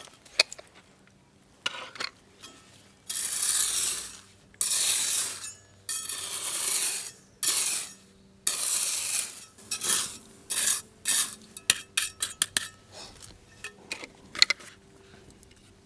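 A hard base plate being worked into place by hand: five long scraping strokes, then a quick run of small clinks and taps.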